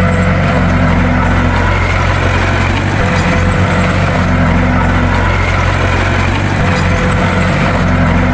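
Bulldozer's diesel engine running steadily with a deep, even drone, with a faint higher tone that returns every few seconds.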